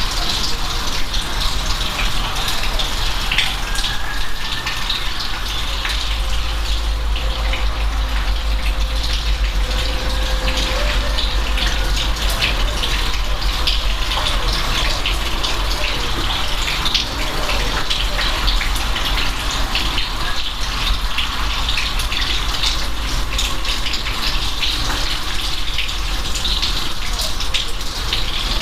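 Steady rain, with many separate drop hits over an even hiss and a low steady rumble underneath from about six seconds in.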